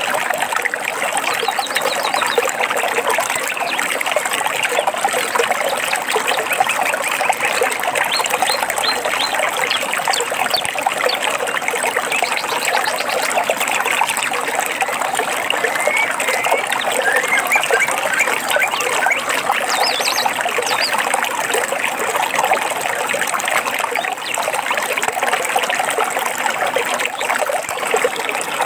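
A forest stream trickling and splashing over rocks, steady throughout, with a few faint high bird chirps and trills over the water now and then.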